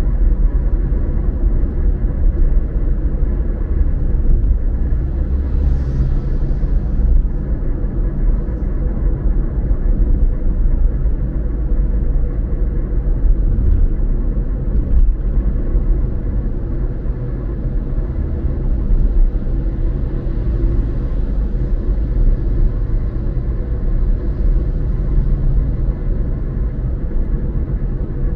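Car driving at steady speed: a continuous low road-and-engine rumble with a faint steady hum above it, a few soft swells of hiss, and one faint click about halfway through.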